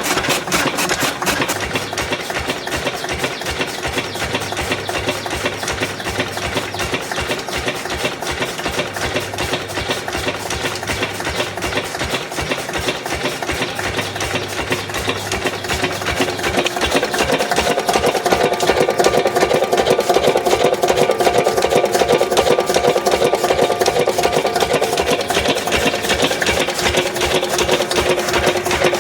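Lister 8 HP single-cylinder diesel engine running steadily, belt-driving a chaff cutter that is chopping fodder, with a fast, even rhythmic beat. About two-thirds of the way in the sound gets louder and a steady humming note joins it.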